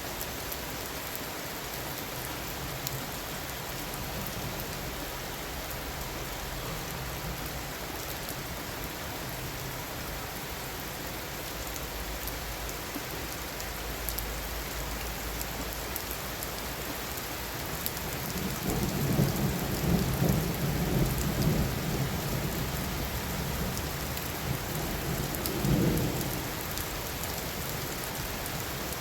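Heavy rain falling steadily in a thunderstorm. About two-thirds of the way in, thunder rumbles loudly for several seconds, and a shorter rumble follows a little later.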